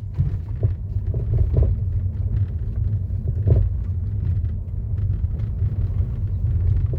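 Front driver's-side suspension of a 2015 Mercedes-Benz E-Class (W212) rattling and clunking in irregular knocks over a rough road, over a steady low road rumble. It is the rattle that persisted after the control arms, tension struts, stabilizer links and shocks were replaced.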